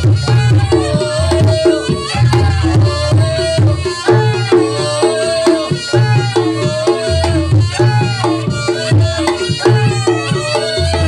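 Reog Ponorogo ensemble music (tabuhan reyog) playing continuously: a reedy slompret melody that bends in pitch over repeating drum beats and steady tuned-gong tones, in a cycle that repeats every couple of seconds.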